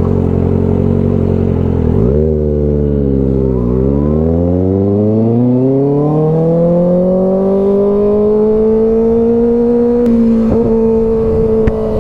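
Kawasaki ZX-6R 636 inline-four engine under way. It runs steady, the revs drop about two seconds in, then from about four seconds the pitch climbs smoothly as the bike accelerates, levelling off near the end.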